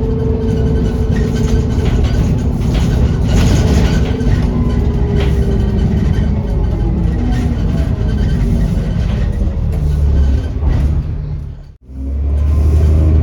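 A bus's diesel engine and turbocharger heard from on board, the engine running with a turbo whistle that slowly falls in pitch as the bus eases off. Near the end the sound cuts out abruptly for a split second, then the engine comes back loudly.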